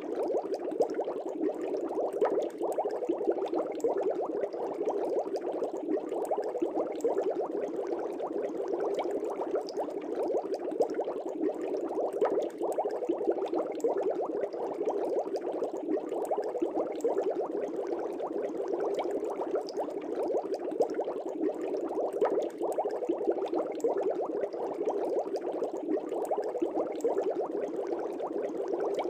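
Air bubbling steadily in an aquarium, a dense, continuous stream of many small bubbles breaking at the water surface.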